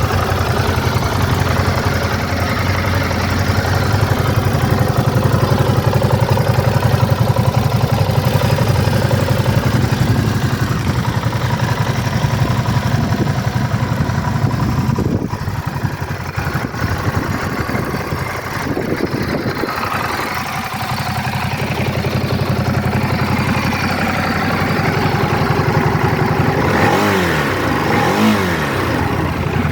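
Ducati DesertX's 937 cc L-twin engine idling steadily, with a couple of quick throttle blips that rise and fall in pitch near the end.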